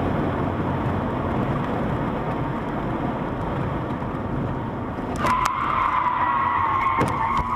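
A car drives with steady engine and road noise. About five seconds in, a steady shrill tone starts and holds for over two seconds. Sharp knocks sound as it begins and again near the end.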